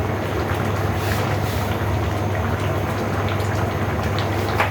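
Pot of squash and string beans in coconut milk bubbling steadily as the sauce simmers down, with small pops and a constant low hum underneath.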